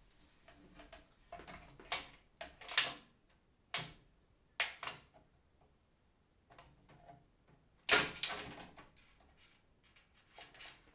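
Irregular clicks, knocks and short scrapes of hard plastic and metal PC parts being handled and fitted into a computer case, the loudest two sharp knocks about eight seconds in.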